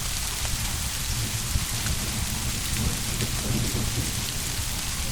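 Steady rain falling, with a low rumble of distant thunder that swells in the middle and then fades.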